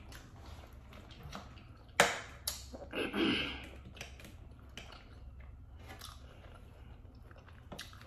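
Chewing and biting food close to the microphone, with a few sharp clicks or knocks, the loudest about two seconds in.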